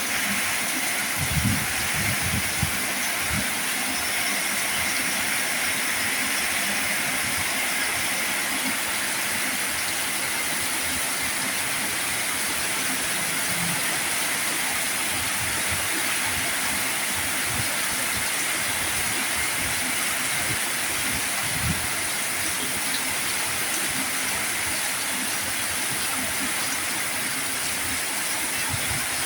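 Heavy rain falling steadily, a constant hiss with a few soft low thumps of drops or gusts, the loudest about a second and a half in.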